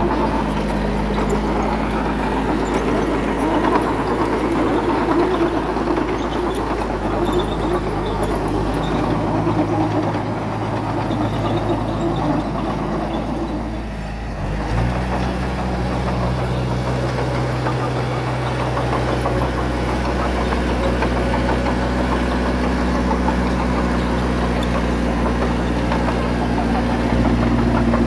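Heavy-equipment diesel engine running steadily. After a brief dip about halfway through, its note shifts.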